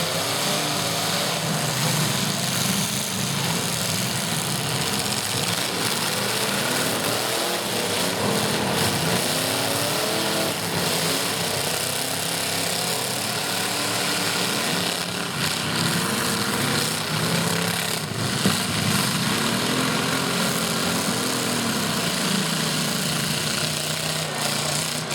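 Several demolition-derby truck engines revving up and down over one another, with a few sharp knocks partway through.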